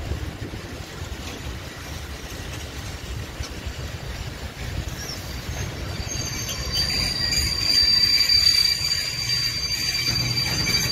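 Long freight train of open coal wagons rolling slowly past with a steady wheel rumble. About six seconds in, a high-pitched squeal from the wheels and brakes sets in and grows louder as the train slows to a stop.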